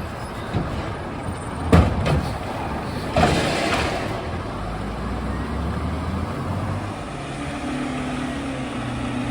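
Garbage truck's diesel engine running, with two sharp bangs less than two seconds apart; the second is followed by a short hiss of air. Near the end the engine settles into a steady note.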